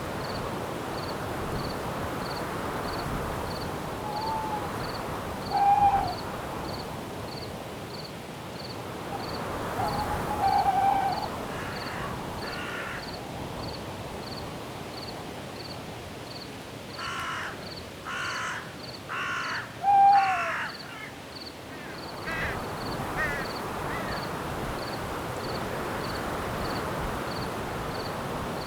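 Steady wind through trees, with a cricket chirping at an even pace of about one and a half chirps a second. Over it a bird calls repeatedly, with short clear notes and, near the middle, a run of four harsh caws.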